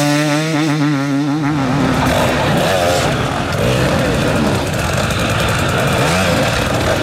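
Off-road enduro motorcycle engine held at high revs with a slightly wavering pitch for about the first second and a half, then a rougher, noisier run of revving with quick rises and falls in pitch.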